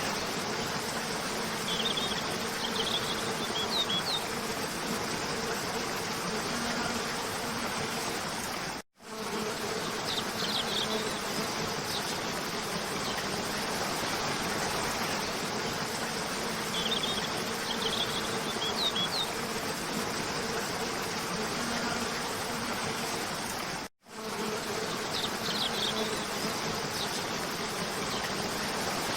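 Waterfall rushing steadily with a low buzzing hum, and short clusters of bird chirps every several seconds. The whole sound cuts out for an instant twice, about fifteen seconds apart, where a repeating loop starts over.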